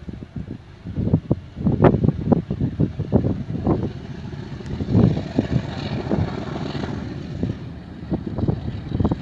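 TransNamib train passing, a low rumble with a run of repeated knocks, about three a second at times, mixed with wind buffeting the microphone.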